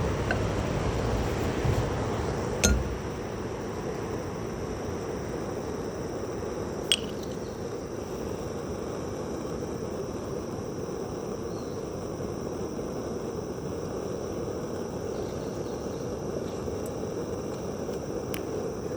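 Steady hiss of cooking on a camp stove under a cast-iron skillet, with two sharp metallic clinks, the first about three seconds in and the second about four seconds later. A low rumble fades out at the first clink.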